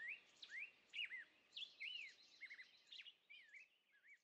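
Faint birdsong: quick whistled chirps that swoop up and down, several a second, fading out near the end.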